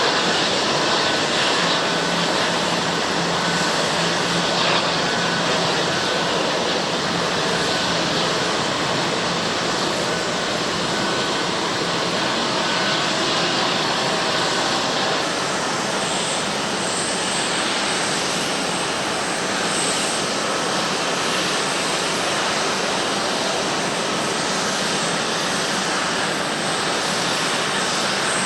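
Jet airliner engines running steadily, with a faint high whine in the first half: a Boeing 747-8 at first, then from about halfway a Boeing 767-300ER.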